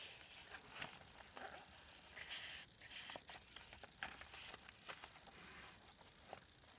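Faint rustling and soft clicks of paper pages and tags being handled and turned in a handmade junk journal, with a brief louder rustle about two and a half seconds in.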